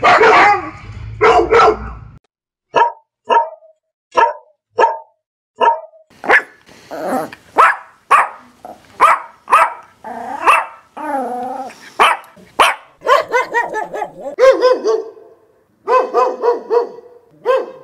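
Recorded dog barks, one after another. First come single short, sharp barks spaced well apart, then denser, fuller barking with one wavering, drawn-out bark near the middle and quick runs of barks near the end.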